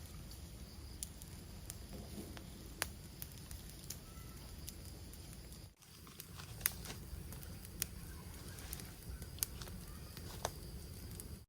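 Cooking fire crackling, with irregular sharp pops over a low steady rustle; the sound drops out briefly about six seconds in.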